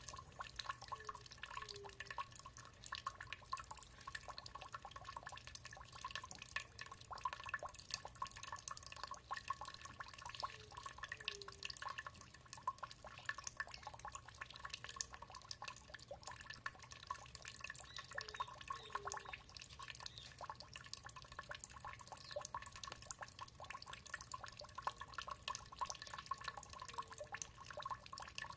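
Water dripping and trickling steadily in many small drops. A faint pair of short low notes recurs about every eight or nine seconds.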